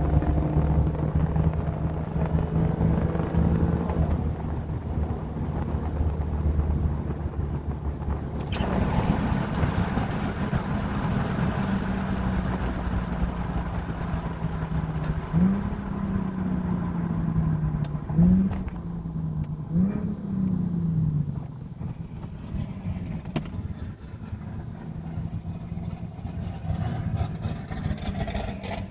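Car engine running loud and steady, then revving: its pitch jumps up sharply three times in the second half, falling back gradually after each.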